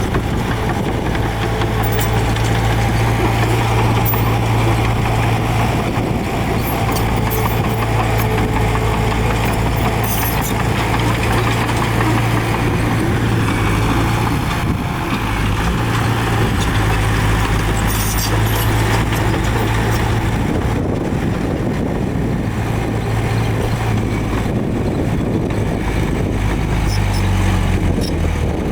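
Heavy diesel earthmoving machinery running steadily with a continuous low engine hum, with a few short metallic clanks about ten and eighteen seconds in.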